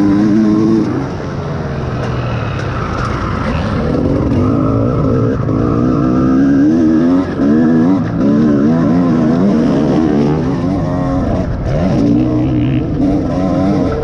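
Honda CR250R's two-stroke single-cylinder engine under load on a dirt track, its revs rising and falling over and over as the throttle is opened and closed, with a short drop about a second in. The engine is at the end of its break-in.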